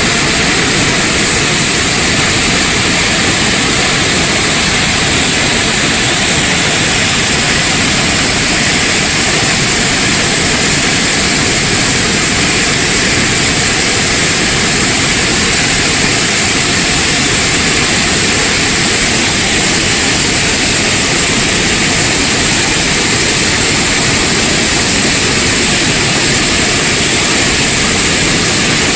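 River in flood: a loud, steady rush of torrent water.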